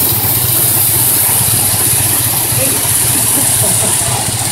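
Water-powered sawmill machinery running: a steady mechanical rumble with a rapid, even rattle, over a steady hiss.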